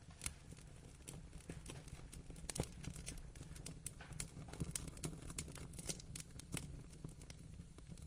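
Wood fire burning in a fireplace: irregular sharp pops and crackles over a low steady rumble of flame.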